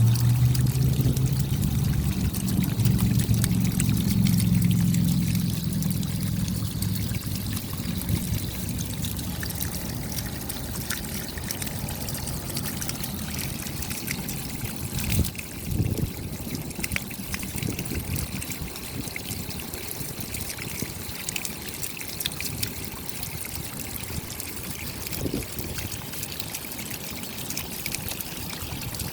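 Rain falling, a dense patter of drops. A low rumble in the first few seconds fades out, and there is a brief low thump about fifteen seconds in.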